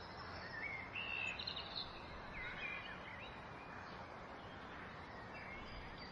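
Outdoor nature ambience: a steady background hiss with a few short bird chirps and whistles in the first three seconds.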